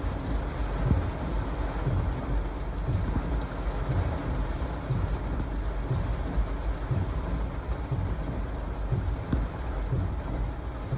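Heavy thunderstorm rain with strong gusty wind: a steady dense rushing, with low rumbles that swell and fade every second or so.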